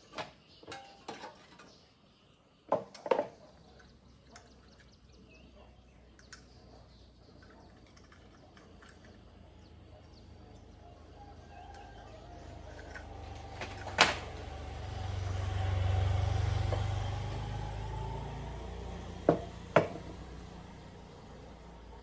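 A vehicle passes, its low rumble slowly swelling to a peak about two thirds of the way through and then fading. Sharp clicks and knocks come over it: several in the first few seconds, one in the middle and two close together near the end.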